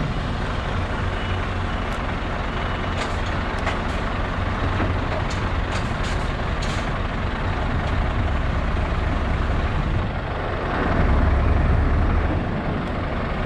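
Scania V8 truck engine running at low revs, swelling louder about eleven seconds in, with a few short clicks and hisses around the middle.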